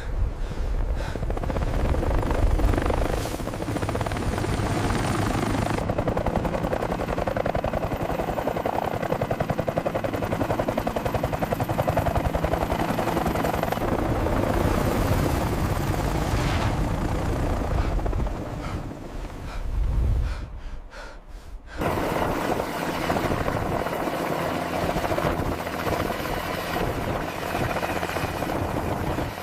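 Helicopter rotors and engine running, a steady heavy rumble that dips briefly about twenty seconds in, then comes back.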